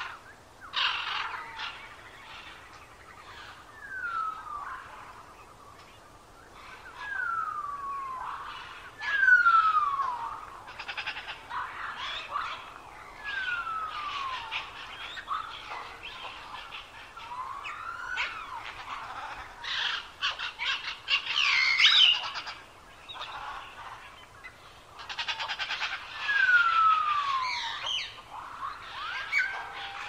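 Northern cardinal whistling clear notes that slide down in pitch, one every second or two, among chirps, trills and calls of other songbirds.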